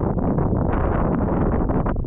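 Wind buffeting the camera's microphone: a loud, gusty rumble with rapid flutter.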